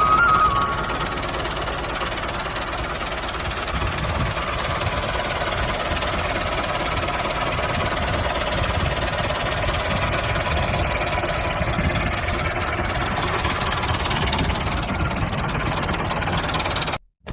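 The DIY mini tractor running under load with a steady engine-like drone that cuts off abruptly near the end.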